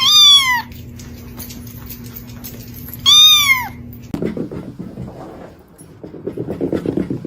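A cat meowing twice, loud drawn-out meows about three seconds apart, each rising then falling in pitch. Rougher, low, scratchy sounds follow in the second half.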